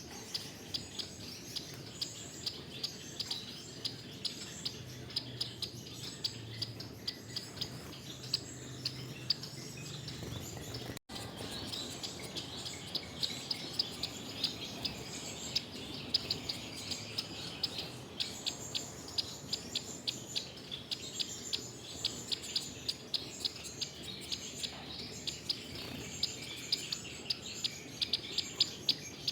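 Gouldian finches chirping, a dense run of short, high calls overlapping one another, with a brief dropout about eleven seconds in.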